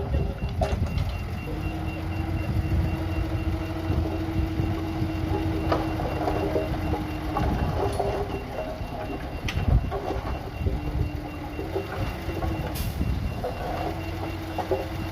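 Heavy diesel machinery running with a steady low rumble while a reversing alarm beeps repeatedly, with a few sharp metallic clanks along the way.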